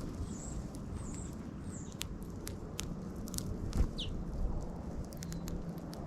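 Small birds pecking at seed on a lawn close to the microphone: a run of sharp irregular clicks. Several short high chirps come in the first two seconds and a brief falling call about four seconds in, over a low background rumble.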